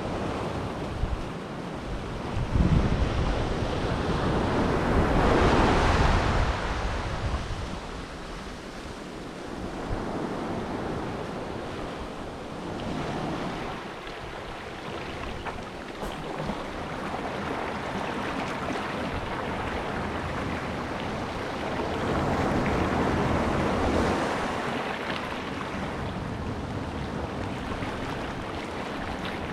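Sea waves washing onto the shore, surging and easing every several seconds, with wind buffeting the microphone.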